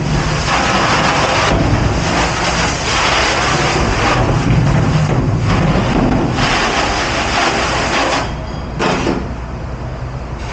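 Hard water spray in a commercial dish pit, such as a pre-rinse sprayer hitting dishes. It stops and starts a few times, then cuts off about eight seconds in, leaving a lower, quieter background hum.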